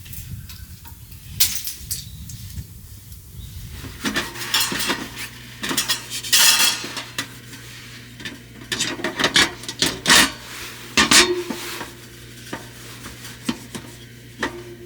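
Cutlery and cookware clinking and scraping in irregular bursts of clatter, busiest in the middle, with a faint low hum starting about four seconds in.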